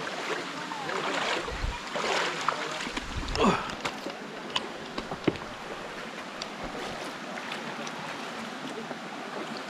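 Stream water running steadily over rocks, with a few louder splashy bursts and sharp knocks in the first half.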